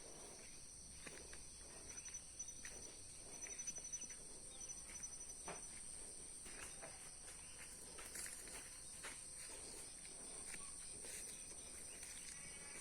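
Insects droning steadily at a high pitch, with a rapid pulsing trill between about two and five seconds in, over scattered soft rustles and clicks of vegetation.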